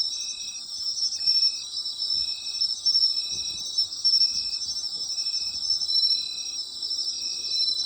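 Chorus of autumn night insects: a dense, steady high-pitched shimmer of many chirping insects, over which one insect repeats a short, lower chirp at an even rhythm of about once a second.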